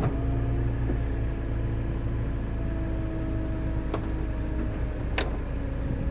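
Peugeot 207CC idling while its power-folding hardtop runs through the last of its opening cycle: a steady hum with a faint motor whine and two sharp clicks, the second at about five seconds as the whine stops.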